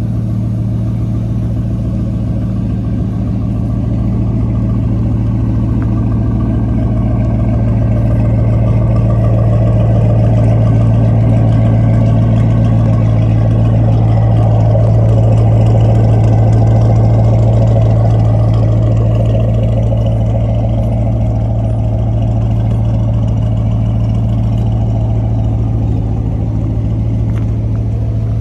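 2010 Mustang GT's 4.6-litre three-valve V8 idling steadily through its stock exhaust while warming up after a cold start. The drone swells a little through the middle and eases back again.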